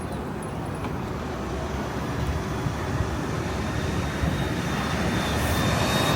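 City street traffic noise that grows slowly louder as a vehicle draws near, with a faint high whine coming in about halfway through.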